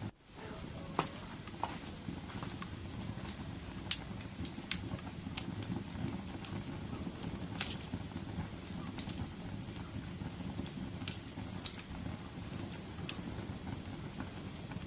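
Wood fire crackling: a steady low rush of burning with sharp pops and snaps scattered every second or so.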